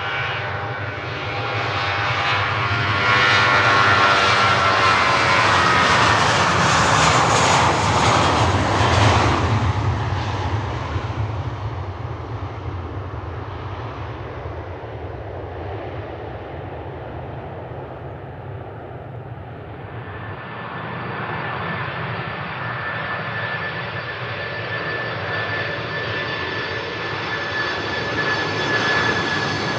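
Jet airliner engines as a plane passes close by, with the whine of several tones falling in pitch as it goes past, loudest a few seconds in before fading away. From about two-thirds of the way through, another jet's engines build with a steady high whine.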